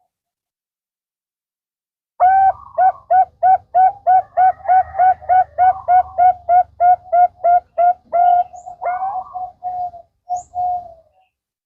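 Zebra dove (Bangkok-type perkutut) cooing. About two seconds in, a rapid, even string of short repeated coos starts at about four a second, then slows into a few longer drawn-out notes near the end.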